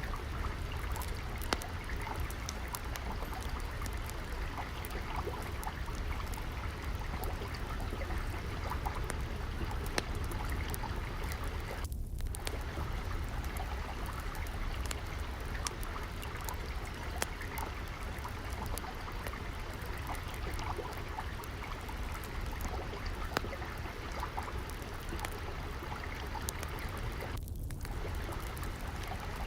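Water flowing and trickling steadily, layered with the frequent sharp crackles and pops of a wood fire burning in a fireplace.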